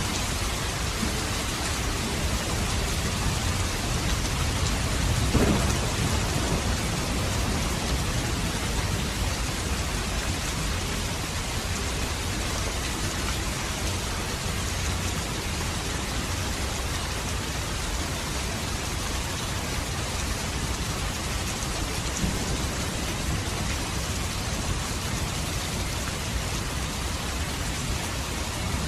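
Steady, heavy rain falling, with a low roll of thunder swelling about five seconds in and a fainter rumble later on.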